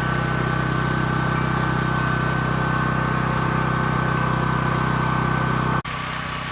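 Portable generator engine running at a steady speed, an even mechanical hum with a thin high whine over it. Near the end it cuts off abruptly and a quieter steady hum follows.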